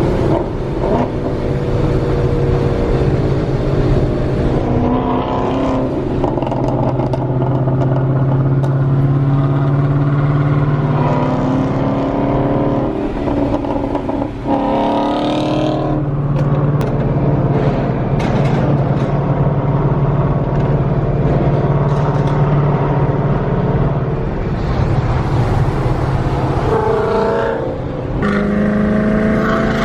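Boosted 5.0 Coyote V8 of a Mustang running loud under way: mostly a steady drone, with the pitch rising in revs a few times, around the middle and again near the end.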